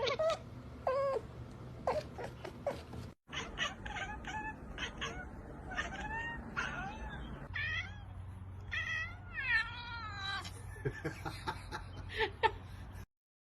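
Cat meowing repeatedly in short calls, some rising and falling in pitch. The calls break off briefly about three seconds in and stop shortly before the end.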